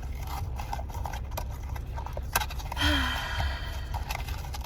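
Small clicks and rustles of blind-box packaging and a plastic figure being handled, with a sharp click about halfway through and a brief crinkling hiss and a short sigh-like sound just after, over a steady low rumble.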